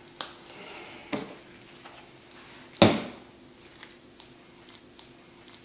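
Three sharp knocks, the loudest about three seconds in, with faint ticks between them.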